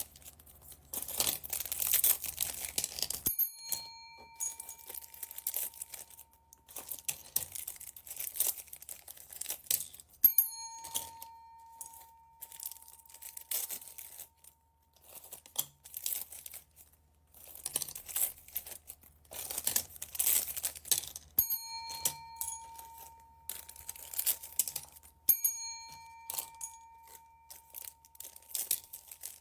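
Thin plastic bead bags crinkling and tearing as they are handled and opened. A bell-like chime rings out four times, each ring fading over a few seconds.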